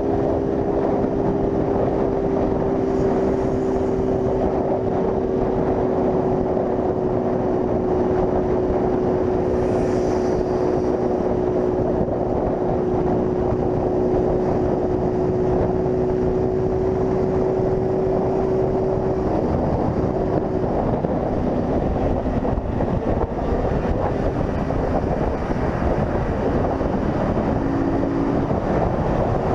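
Honda CG 160 Fan motorcycle's single-cylinder engine running at a steady cruising speed, with heavy wind on the microphone. The engine note holds one pitch and fades about two-thirds of the way through, leaving mostly wind and road noise.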